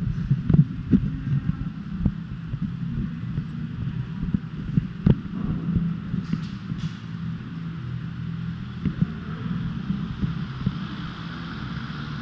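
Low rumble with irregular low thumps from a body-worn camera's microphone jostling as the wearer moves on foot, with a sharper knock about five seconds in.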